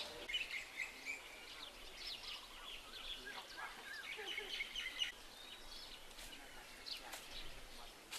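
Birds chirping and calling in many short notes over a faint background hiss, with a single sharp click about seven seconds in.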